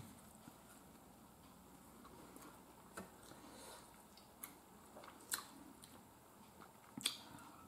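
Quiet chewing of food close to the microphone, with a few sharp, scattered clicks of a metal fork picking at food in a metal baking pan.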